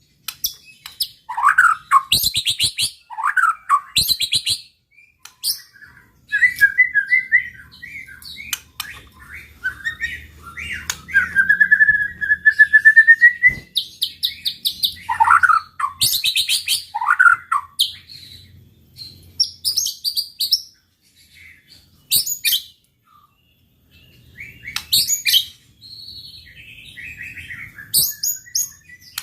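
White-rumped shama (murai batu) in full, varied song: bursts of rapid high trills alternate with sweeping whistled phrases, with a long rising whistle near the middle and short pauses between phrases.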